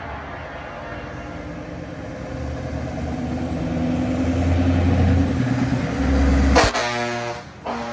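Heavy truck's diesel engine passing, growing louder as it approaches. Near the end it sounds a long air horn blast and then a second short one.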